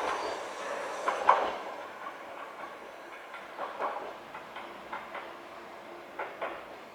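Choshi Electric Railway train running over the track, its wheels clattering over rail joints in pairs of clicks a second or two apart while the sound fades away.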